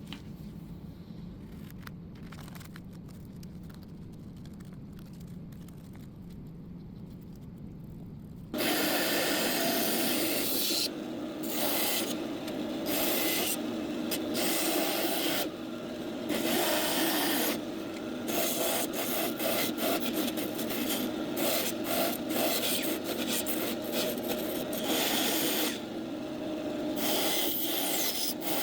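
A low steady hum, then from about eight seconds in, repeated rubbing and scraping strokes of a hand tool working on a small part, with short pauses between runs of strokes.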